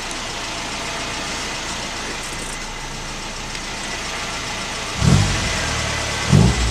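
A 2000 Rover Mini's four-cylinder A-series engine idling with the automatic gearbox selected into reverse, waiting through a long lag before drive takes up. About five seconds in, a louder low drone sets in abruptly, as reverse engages and the raised wheels start turning. The long delay is the mark of low line pressure from heavy internal fluid leakage in the automatic gearbox.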